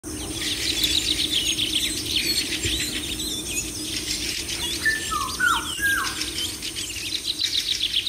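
A chorus of many birds chirping and twittering rapidly, with three short falling whistled notes about five seconds in, over a steady low hum.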